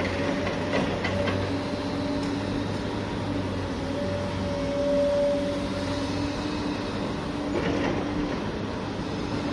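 A steady, engine-like vehicle drone, with a few light clicks about a second in and again near the end.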